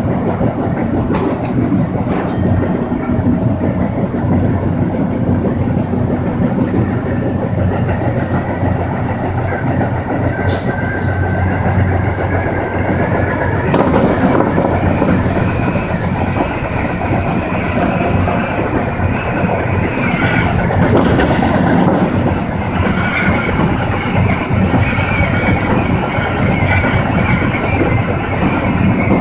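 Electric commuter train running at speed, heard from inside the car: a steady rumble of wheels on rails with a few clicks and a faint high whine. It gets a little louder about halfway through.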